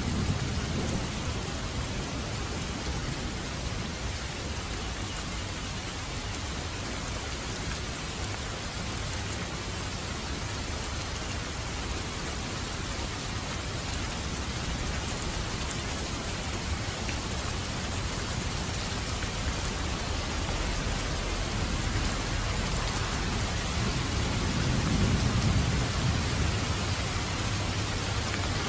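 Steady rain falling, with low rolls of thunder rumbling in at the start and again near the end.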